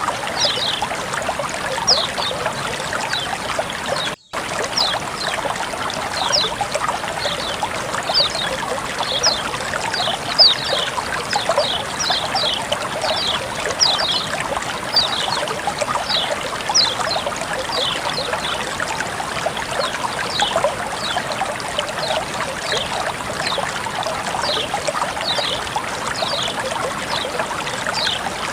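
Water flowing and trickling steadily, with frequent short high plinks over the running sound. It cuts out for a split second about four seconds in.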